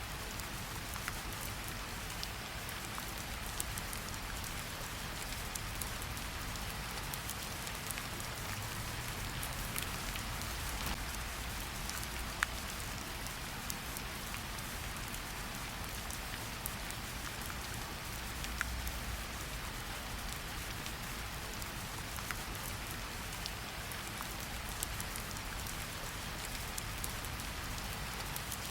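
Steady rain falling in a forest, an even hiss with scattered individual drops ticking on nearby surfaces.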